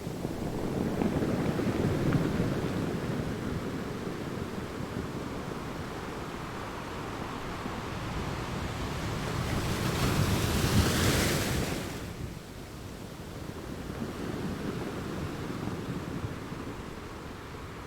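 Ocean waves washing in and out in slow swells, with one bigger wave breaking in a loud hissing rush about ten seconds in before it drains away.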